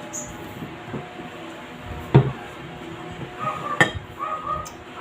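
Spoon and tableware clinking against dishes, with a few sharp knocks, the loudest about two seconds in and another near four seconds.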